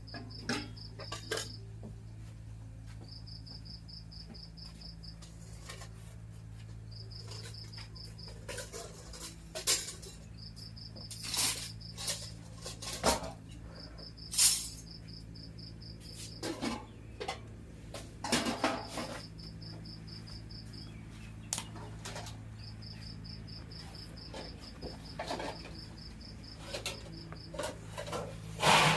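Pots, dishes and utensils clinking and clattering now and then, the loudest knocks about a third of the way in, over a cricket chirping in repeated bursts of quick high pulses a few seconds apart and a steady low hum.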